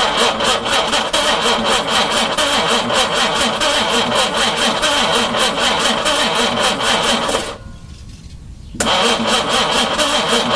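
A long-dormant carburetted 4.2-litre engine being cranked on its starter for a first start, its carburettors hand-primed with petrol, turning over with a steady pulsing beat. About seven and a half seconds in it winds down for about a second, then is cranked again.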